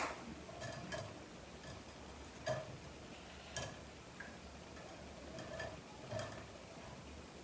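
Kitchen handling noise: a few light clicks and knocks, spaced about a second apart.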